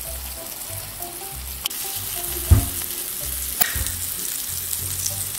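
Salmon fillets frying in melted butter in a frying pan, a steady sizzle, over soft background music with a repeating beat. A sharp knock about two and a half seconds in, and another about a second later.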